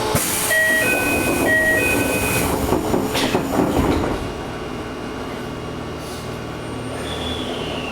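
Inside a Toei 5300 series commuter train car: an alternating two-note electronic chime sounds about four times, a noisy clunk follows about three seconds in, then the car settles to a quieter steady hum with a thin falling whine near the end.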